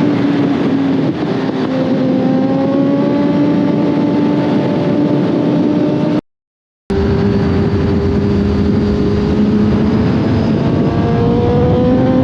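Sport motorcycle's inline-four engine running at road speed, its note climbing slowly as the bike gains speed, with wind rush over it. The sound cuts out completely for about half a second around six seconds in, then picks up again still rising slowly.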